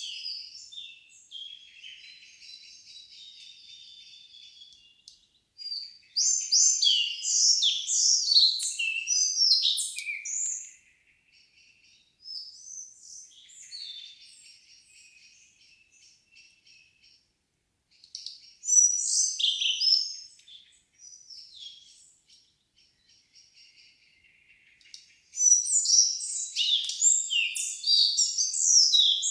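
Songbirds singing in a still forest in the evening. Loud phrases of quick, varied chirping notes come three times: a few seconds in, near the middle, and from about 25 seconds to the end. Softer trills and chirps fill the gaps between them.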